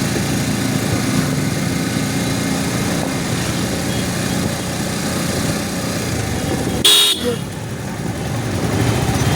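Road traffic: motor vehicle engines running steadily, with a short, loud horn beep about seven seconds in.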